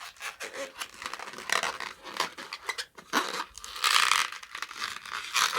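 Latex modelling balloon being handled and twisted by hand, a run of rubbing, crinkling noises from the rubber, densest and loudest about four seconds in.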